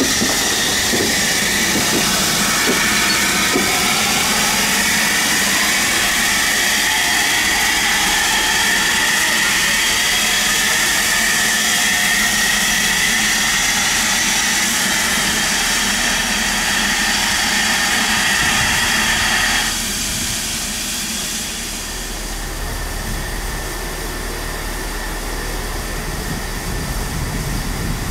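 A railway locomotive running, with a steady hiss and a high whine that drifts slowly in pitch. About twenty seconds in the whine stops abruptly, leaving a quieter low rumble.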